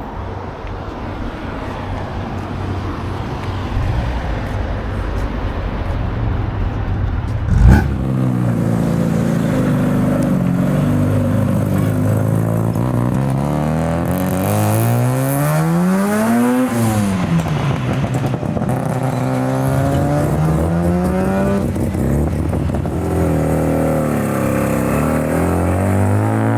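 Mazda rotary engine on the road, running low at first, then revving up for several seconds and dropping back, with a second climb in revs near the end. One sharp knock comes about eight seconds in.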